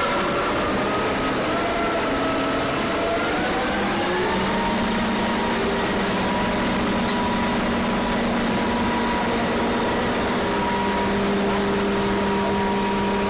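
A boat's engine running under a steady rush of noise; a few seconds in, its pitch rises smoothly over about two seconds and then holds steady.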